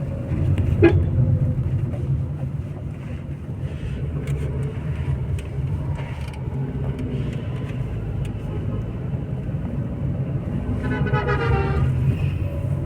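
Car driving along a road: a steady low rumble of engine and road noise, with a brief pitched sound near the end.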